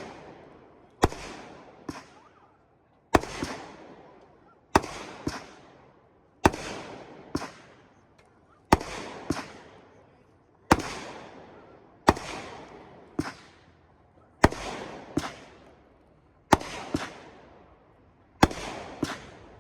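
Consumer firework cake firing tiger-tail comet shots one after another, a sharp report about every two seconds. Many shots are followed by a second, fainter crack, and a hiss fades away after each.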